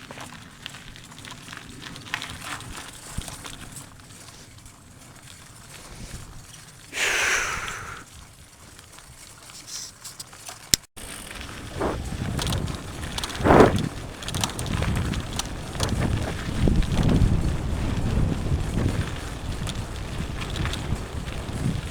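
Mountain bike riding a dirt trail: tyre and frame noise with rattling over rough ground. It is quieter in the first half, with a brief falling hiss about seven seconds in, then louder, uneven rumbling after a sudden cut near the middle.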